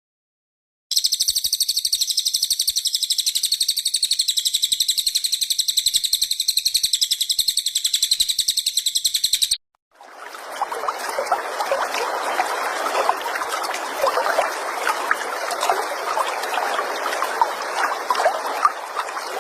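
Recorded small-songbird calls played as song-tutoring material: a fast, high-pitched trill repeating evenly many times a second for about eight seconds, then, after a short break, a denser, lower run of quick chattering chirps.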